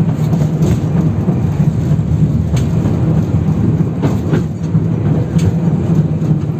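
Tatra-type 71-608KM tram running along the track, heard from inside the car: a steady low rumble of wheels and running gear with a few sharp knocks from the rails. Route 18's track is badly worn.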